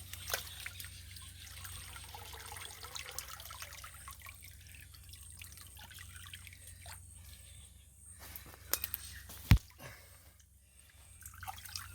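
Water dripping and trickling from a freshly lifted yabby trap, with scattered small clicks and one sharp knock about nine and a half seconds in.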